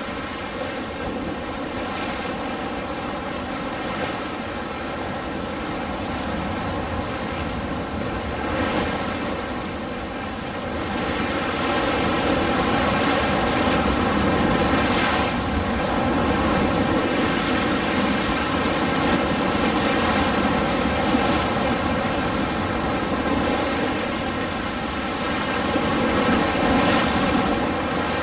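Ocean surf: waves washing in continuously, swelling louder about twelve seconds in, with a steady hum running underneath.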